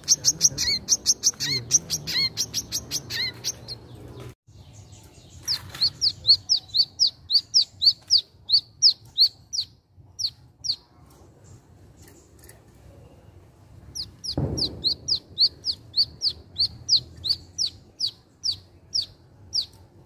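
Caged wiceh singing: runs of quick, sharp, down-slurred chirps, about three a second, in three bursts of several seconds each with short pauses between them. A dull thump comes as the third burst begins.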